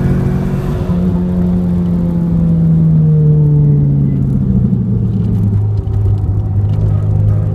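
Porsche 944 Turbo's turbocharged four-cylinder engine heard from inside the cabin, its note falling as the car brakes hard from about 80 mph for a corner. About five seconds in the pitch briefly rises as it downshifts, then settles to a lower steady note through the turn.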